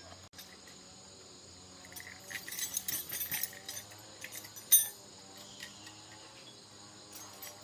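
Light clinks and rattles of small hard objects being handled, with one sharp, loud click a little under five seconds in, over a faint steady background of insects.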